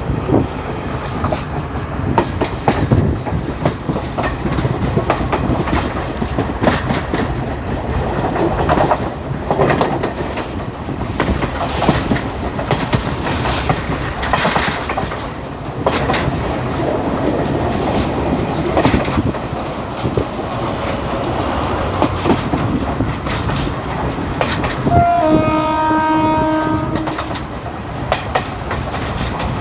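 Local passenger train running along the line, with its wheels rumbling and knocking over the rail joints. Near the end a train horn sounds once, a steady blast of about two seconds.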